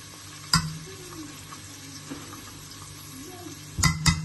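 Onions frying in oil in a pan, a steady sizzle, being stirred: one sharp clink of the spoon on the pan about half a second in and several quick clinks near the end.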